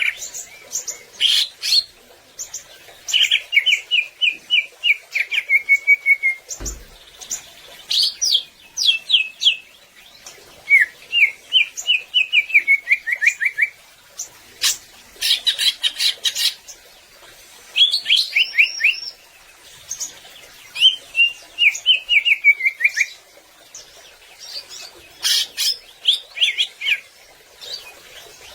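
A cucak ijo (green leafbird) singing: a string of phrases, each a rapid run of sharp chirping notes, many sliding down in pitch, with short pauses between phrases.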